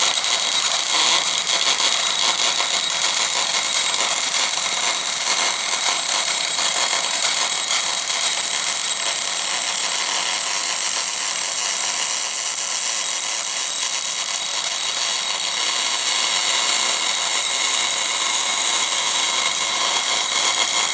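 MIG/MAG welding arc burning steadily on cast iron, a continuous crackling hiss, with the wire feed turned down a little.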